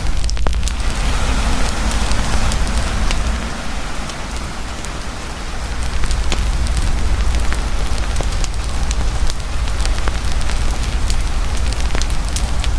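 Campfire crackling, with frequent sharp pops and snaps, over the steady hiss of heavy rain.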